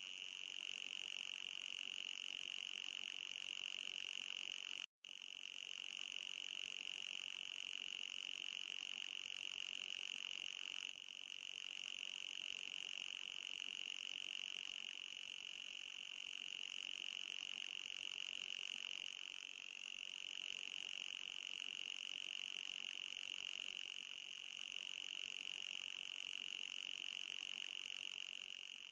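Anti-mosquito repeller sound: a steady high-pitched electronic whine with a fainter, higher overtone above it, cutting out for an instant about five seconds in.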